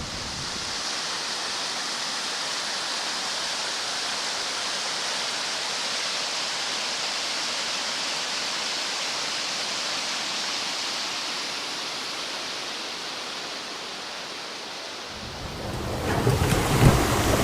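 Steady rush of water from small rapids and falls, an even hiss with little low rumble. Near the end a louder, rougher noise with a few sharp knocks takes over.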